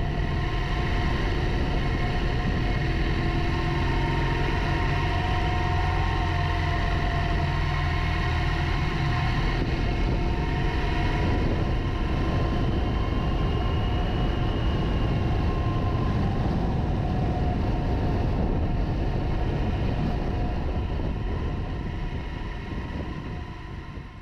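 Motorcycle running on the road, its engine note under heavy wind rush on the microphone; the sound fades away over the last few seconds.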